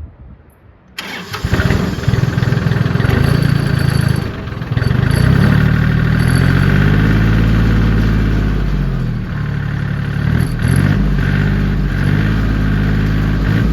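John Deere 770 compact tractor's three-cylinder diesel engine cranked and catching about a second in, then running, its engine speed rising and falling twice.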